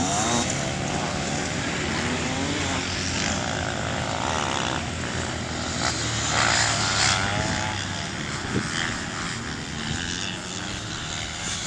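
Several off-road motorcycle and quad engines racing, their overlapping pitches rising and falling as they rev and shift.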